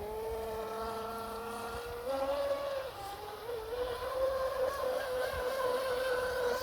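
Traxxas radio-controlled boat's motor running on the water: a steady whine that wavers slightly in pitch two to three seconds in, then holds.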